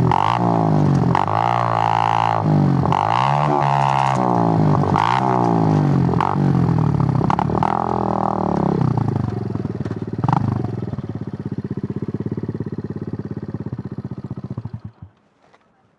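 Suzuki GN125's single-cylinder four-stroke engine, its revs swinging down and back up about once a second, then settling to a steady idle with a single click, before cutting out near the end as it is switched off.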